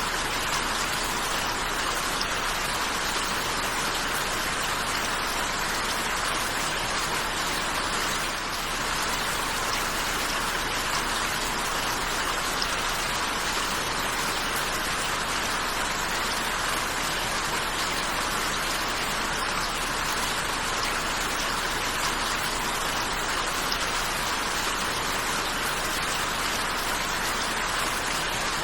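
Steady rainfall: an even hiss of rain with many fine drops pattering, unchanging throughout.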